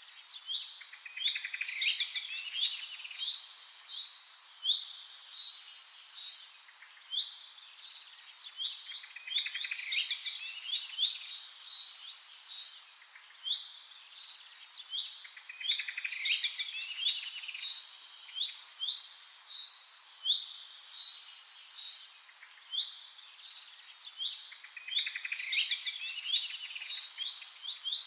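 Birdsong: high chirps and quick trills, in clusters of phrases that come back every several seconds.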